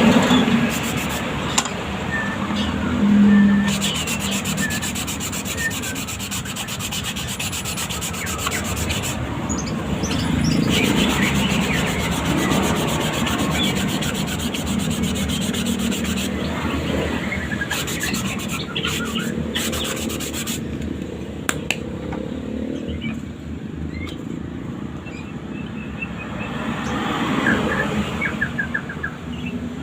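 A bird cage base being rubbed down by hand with steady, continuous scratchy strokes to smooth it.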